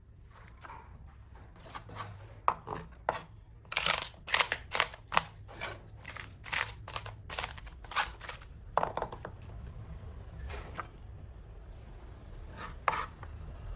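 Food being cut: a series of irregular sharp cutting strokes, most frequent in the middle, with a couple more near the end.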